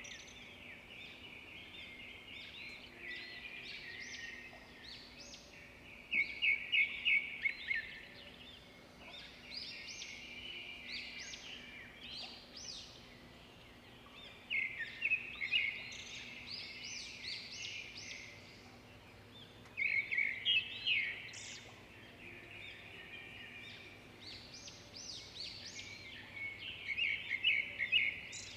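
Songbirds singing: short phrases of quick, high repeated notes, several of them a few seconds apart, over a faint steady low hum.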